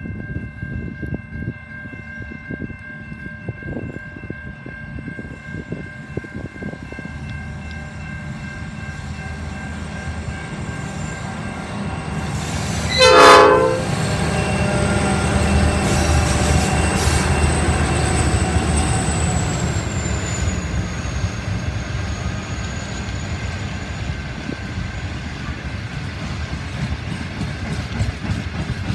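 A freight train approaching and passing behind two Pacific National 81-class diesel locomotives, whose engines are EMD two-stroke V16s. Its rumble builds steadily and the locomotive horn gives one short, very loud blast about halfway through. The locomotives' heavy engine rumble goes by, followed by the wagons rolling past with wheel clickety-clack.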